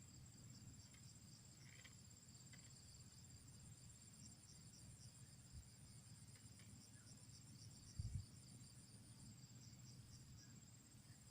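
Faint night chorus of crickets, a steady high pulsing trill of several overlapping tones. A brief low thump about eight seconds in.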